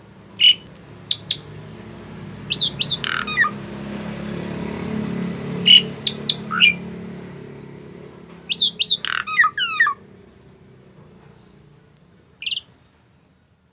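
Asian pied starling (jalak suren) calling in short squawks and whistled notes, in several bursts a few seconds apart, the last one a single short call near the end. A low background hum swells in the middle and fades away.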